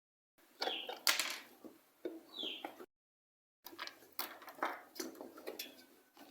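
Light clicks, taps and scrapes of a screwdriver and hands working the screws out of an electric kettle's base, with a bird chirping now and then in the background. The sound drops to dead silence twice, briefly, at edits.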